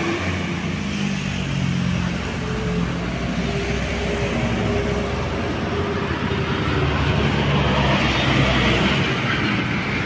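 Engine of a heavy road vehicle running steadily under load up a steep hill, with tyre and road noise.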